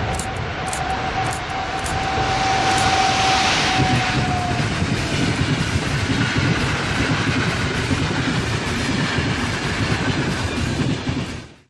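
Electric passenger train passing close by. As the EU44 Husarz locomotive goes past there is a steady whine, which fades out about five seconds in. After that the coaches rumble and clatter over the rails. The sound cuts off abruptly near the end.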